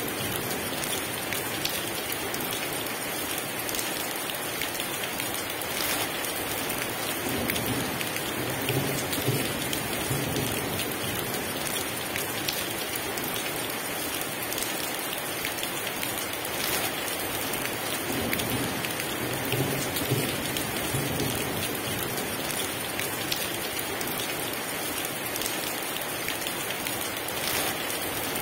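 Heavy rain pouring steadily, with a few soft low rumbles of distant thunder underneath.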